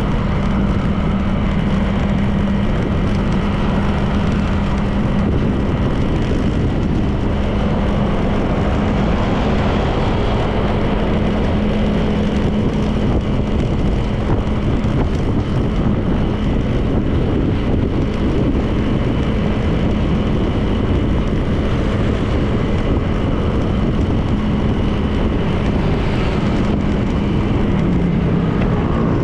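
Honda PCX 160 scooter's single-cylinder engine running at a steady cruise, with wind and road noise. The engine note dips briefly near the end, then picks up again.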